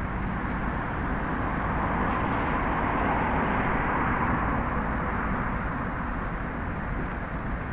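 Thunderstorm wind and rain, a steady rushing noise with a low rumble, swelling as a gust builds for a few seconds in the middle and then easing.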